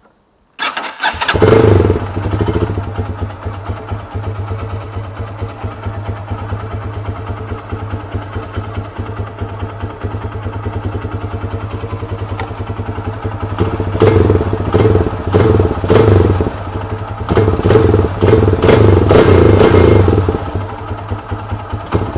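Lifan 200 cc single-cylinder four-stroke motorcycle engine starts about half a second in and idles, then is blipped sharply with the throttle several times in the last third. This tests the PZ30 carburettor's accelerator pump after its dose has been reduced, and the throttle response is heard as no different.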